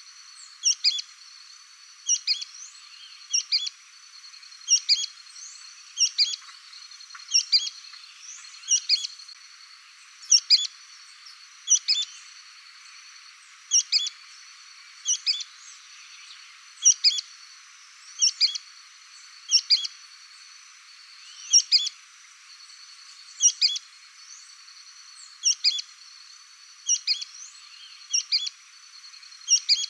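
Sooty-fronted spinetail (petrim) calling: a short, sharp call repeated about every second and a half, over a steady high-pitched background trill.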